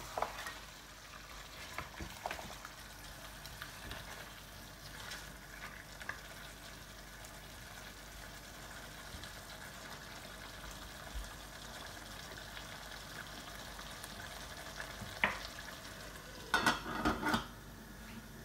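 Lamb curry sizzling in a steel pot as it is stirred with a wooden spoon, the meat cooking in the water it has released, with scattered scrapes and taps of the spoon. Near the end a metal lid clatters onto the pot in a few quick knocks.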